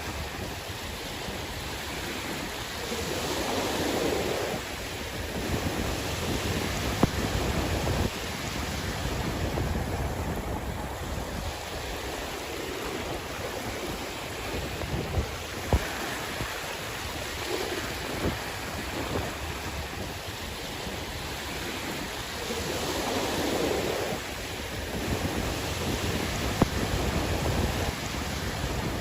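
Sea waves washing in, the surf swelling and easing every several seconds, with wind buffeting the microphone and a few brief knocks.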